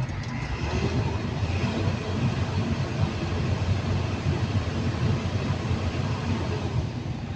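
Caterpillar 320D2 L excavator's diesel engine running steadily with a low, even rumble. The machine is down on power: its engine RPM stays low despite a throttle cable adjustment.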